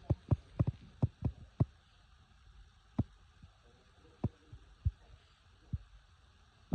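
Dull thumps of cats' paws landing on a floor while chasing a laser dot: a quick run of about seven in the first second and a half, then single thumps every second or so, the loudest near the end.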